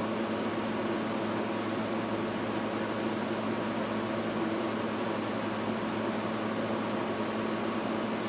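Steady fan-like hum with an even hiss, unchanging throughout, with no distinct knocks or clicks.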